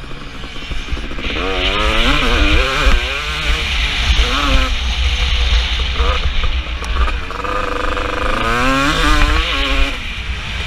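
KTM 250 SX two-stroke motocross bike engine revving up and falling back over and over as the rider accelerates and shifts round the track, with a heavy low rumble underneath.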